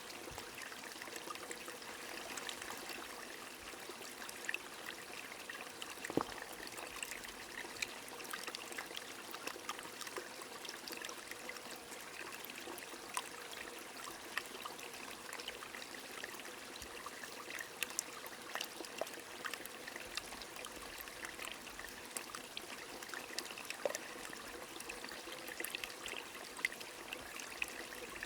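A small stream trickling and burbling steadily, with scattered drips and patters of rain.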